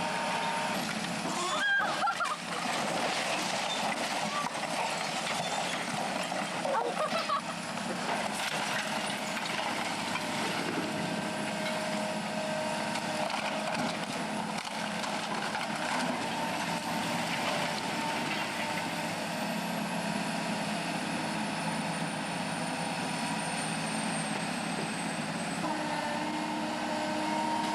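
Heavy demolition machinery running steadily, with whining tones and a couple of sharp knocks about two and seven seconds in.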